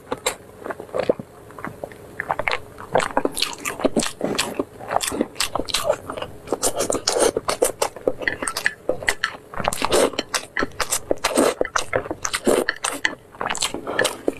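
Close-miked wet chewing of a mouthful of zhajiang noodles, with many quick, irregular mouth clicks and smacks.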